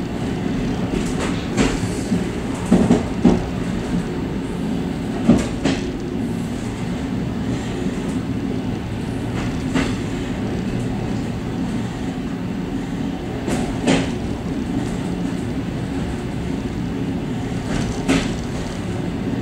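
Suburban train running along the track, heard from its vestibule: a steady low rumble of wheels on rail with irregular sharp clacks, often in quick pairs, as the wheels pass over rail joints.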